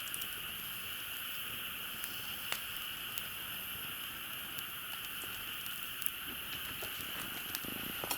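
Campfire crackling with scattered small clicks and a few sharper pops, over a steady high-pitched chorus of frogs and insects.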